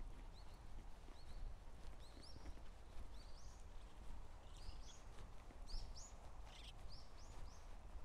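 Small birds chirping in a tree line: a series of short rising chirps, sparse at first and busier from about two seconds in, over a low steady rumble.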